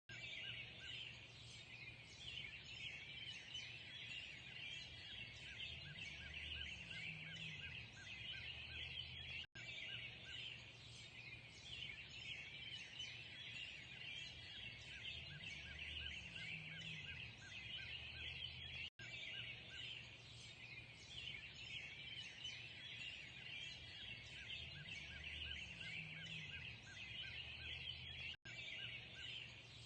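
A dense chorus of many birds singing and chirping over a low hum. The same few seconds of recording loop about every nine and a half seconds, with a brief dropout at each join.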